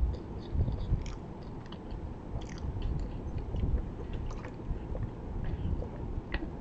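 A person chewing a chewy mouthful of pizza close to the microphone, with scattered small wet mouth clicks. In the second half they drink from a plastic bottle.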